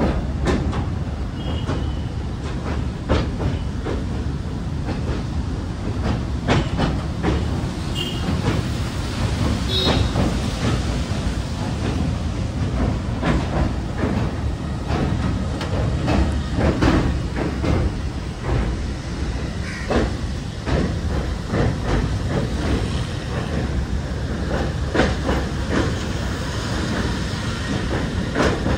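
Passenger train running along the track: a steady rumble with the clickety-clack of the wheels over rail joints, and a few brief high squeals early on.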